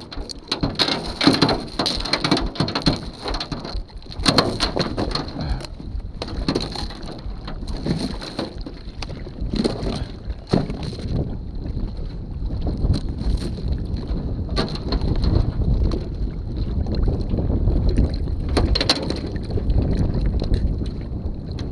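Wind rumbling on the microphone, growing stronger in the second half, with scattered knocks and scrapes of handling through the first half.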